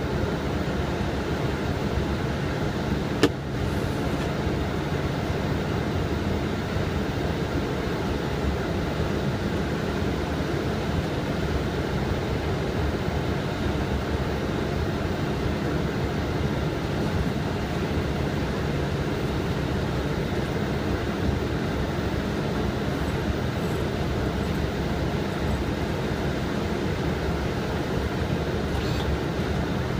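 Steady cockpit noise of a Boeing 777 in flight: the even rush of airflow and air conditioning, holding level throughout, with one sharp click about three seconds in.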